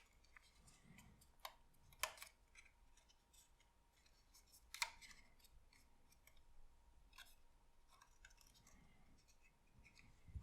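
Faint handling of a paper craft model: a few sharp clicks and soft rustles of paper card, spaced a couple of seconds apart.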